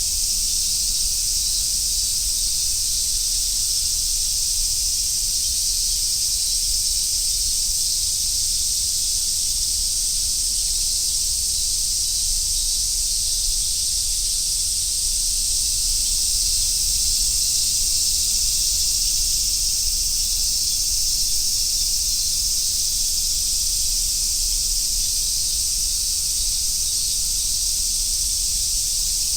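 Dense chorus of summer cicadas: a steady, unbroken high-pitched sizzling drone.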